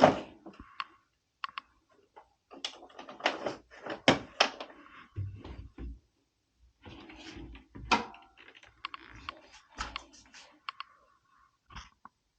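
Irregular clicks, taps and scrapes of hand tools and screws on a washing machine's casing as its top cover is unscrewed and slid off, with a few dull low thuds.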